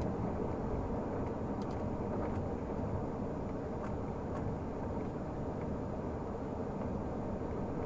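2012 Renault Magnum 480 truck's straight-six diesel engine running steadily while driving, with a few faint ticks in the first half.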